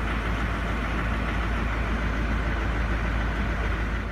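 Diesel engine idling just after a hard cold start in extreme cold, running barely, with the fuel the owner believes has gelled.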